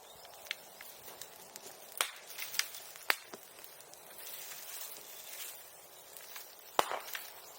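Bonfire crackling: a faint hiss broken by scattered sharp pops, about six in all, the loudest near the end.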